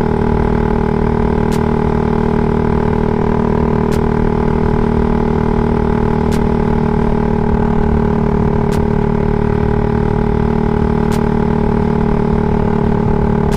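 Suzuki Raider 150 Fi's single-cylinder four-stroke engine running at a steady speed through a CHA aftermarket exhaust pipe, very loud and even with no revving. A faint sharp click comes about every two and a half seconds.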